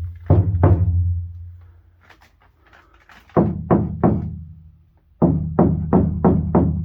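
Knocking on the sheet-metal panels of a Ford F-100 pickup cab to test its sound deadening: sharp strikes with a low, hollow resonance that dies away within a fraction of a second, in three groups of two, three and about six knocks.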